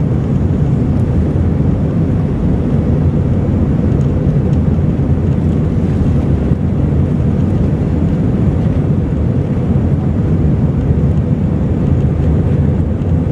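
Steady loud rumble and rush of a jet airliner's engines and airflow, unchanging throughout.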